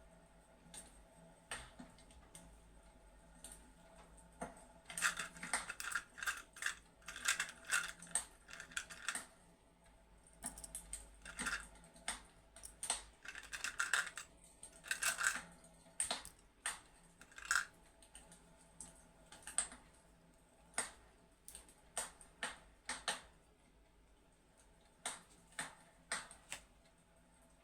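Crackling fireplace: irregular sharp clicks and pops, coming thick and loud in two stretches and sparse in between.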